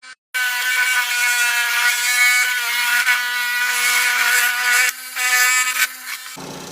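Lapidary rock saw running with a steady whine, cutting into stone. It starts abruptly, dips briefly about five seconds in, and drops to a quieter run near the end.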